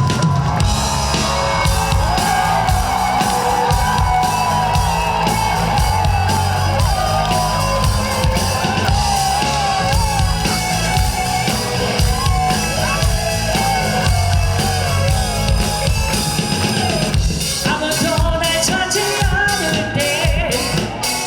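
Live rock band playing loudly: a long, bending lead melody over drum kit and bass, with a run of sharp drum hits in the last few seconds.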